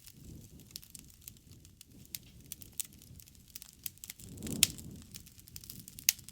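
Wood campfire crackling, with irregular small pops and snaps over a faint low rumble. A louder pop comes about four and a half seconds in, inside a brief low rush, and another sharp pop comes near the end.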